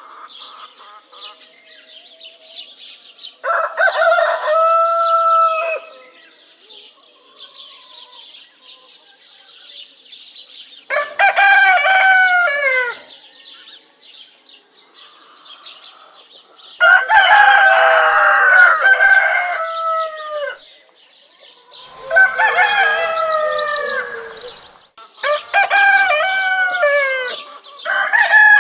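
Roosters crowing repeatedly: six loud, drawn-out crows spaced a few seconds apart, with softer hen clucking and bird chirps between them.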